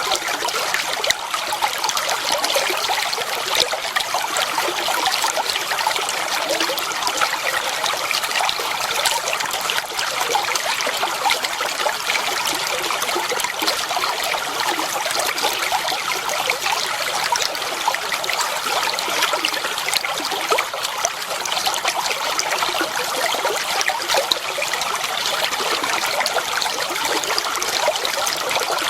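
Clear water flowing and trickling steadily over stones in a shallow stream, a continuous bright babble of small splashes with little low rumble.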